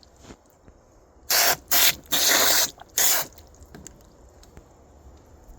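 Water spraying from a hose into a bucket of dirt to make mud, in four short bursts, one after another between about one and a half and three seconds in.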